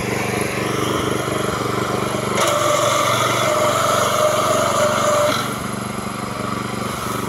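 Small petrol engine of a power weeder running steadily. About two and a half seconds in it gets louder, with a higher tone, for about three seconds, then settles back to its earlier running note.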